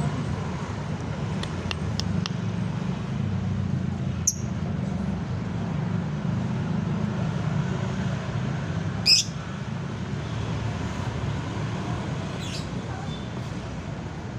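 Lovebird giving a few short high chirps, a sharp call about four seconds in, and one loud squawk about nine seconds in, over a steady low rumble.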